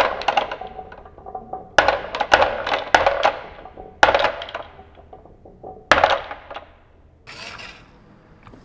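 Small hard toy pieces clattering and clinking: clusters of sharp knocks and short rattles about every two seconds, with a softer rustle near the end.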